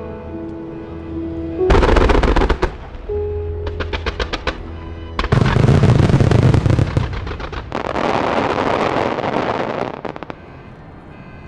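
Aerial fireworks going off in loud volleys of booms and dense crackling, over music played for the display. The bursts die away about ten seconds in, leaving the music.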